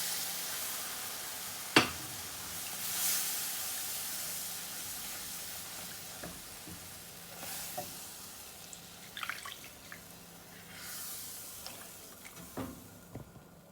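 Milk being poured into a hot butter-and-flour roux in a frying pan, sizzling and hissing and gradually dying down, with a sharp knock about two seconds in. A few short scrapes and clinks from stirring come near the end.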